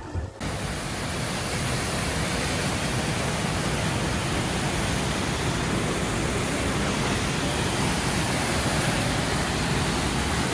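Waterfall's water rushing in a steady, even roar that cuts in abruptly about half a second in.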